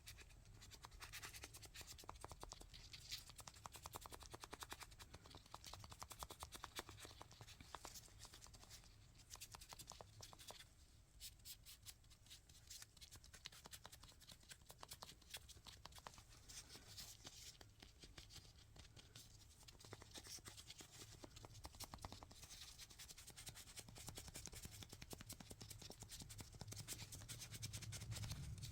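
Faint, close-miked scratching and small clicks of hands working with small objects, in dense runs with a quieter stretch near the middle.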